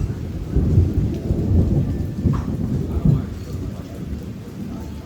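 A rolling rumble of thunder over steady heavy rain, loudest in the first three seconds and then dying away.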